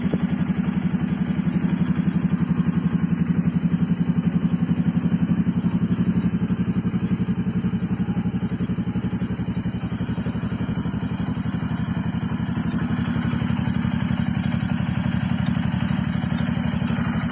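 Yamaha WR155's single-cylinder four-stroke engine idling through a Triton Pro 5 Series full-system stainless aftermarket exhaust: a steady, evenly pulsing exhaust note.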